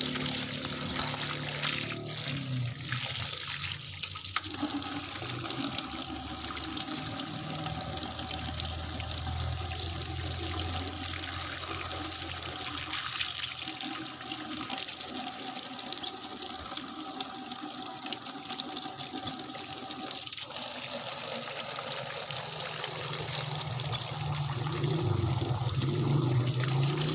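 Water running steadily, as from a tap or hose used to wash out a bird cage.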